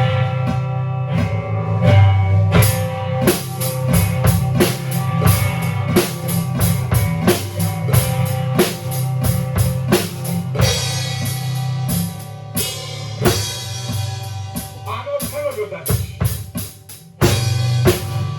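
A rock band playing live: drum kit with kick and snare strikes over sustained bass and guitar tones. Cymbals wash in from about ten seconds in, and the band drops back near the end before coming in again at full level.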